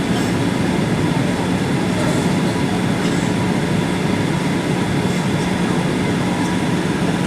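Steady cabin noise of a Boeing 737-800 airliner in flight: the low, even rush of its CFM56 engines and airflow heard from inside the cabin, with a few faint ticks.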